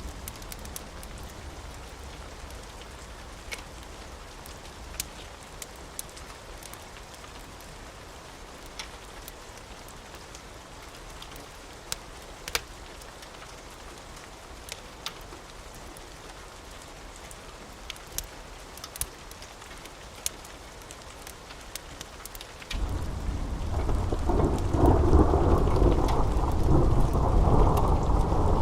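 Steady rain with scattered sharp crackles. About 23 seconds in, a loud rumble of thunder starts suddenly and builds, rolling on to the end.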